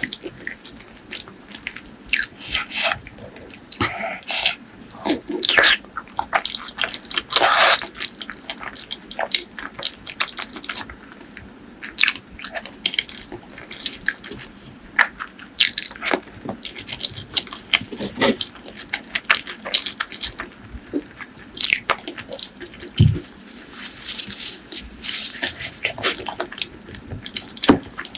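Close-miked eating of pork leg curry with rice: irregular wet chewing and lip-smacking, with sharper bites and clicks scattered throughout.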